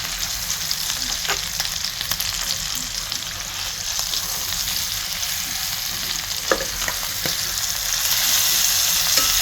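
Seasoned chicken thighs frying in bacon grease: a steady sizzling hiss with a few light clicks, growing a little louder near the end.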